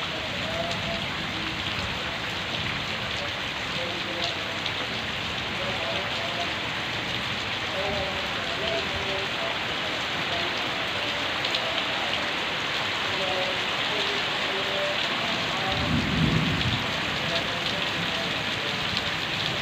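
Heavy rain falling steadily, an even hiss throughout, with a brief low rumble about sixteen seconds in.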